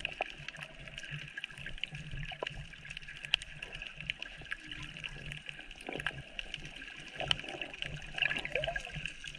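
Running water, with scattered small clicks.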